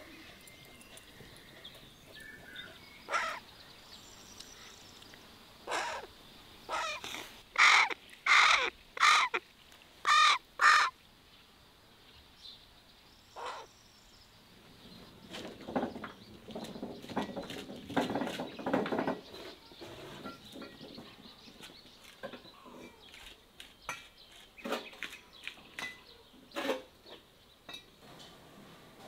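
Birds calling: a run of about six loud, short calls in quick succession, with scattered fainter calls before and after.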